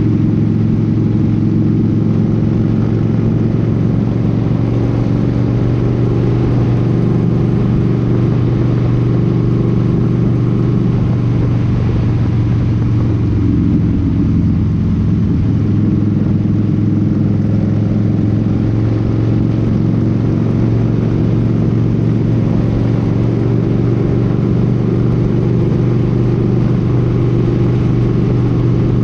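Motorcycle engine running steadily at highway cruising speed; about halfway through the engine note briefly changes, then settles back to a steady tone.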